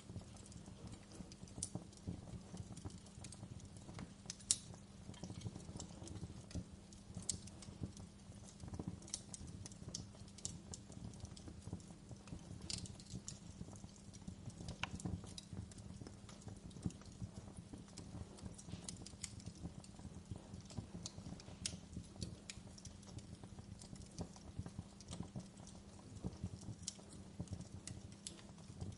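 Wood fire crackling, with irregular small snaps and pops over a low steady rumble; one sharper pop about four and a half seconds in.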